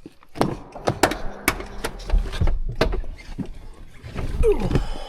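A run of sharp clunks and knocks, about ten of them, with rattling in between and a short falling squeak near the end: a pickup truck's door and body being handled just before it is started after an oil change.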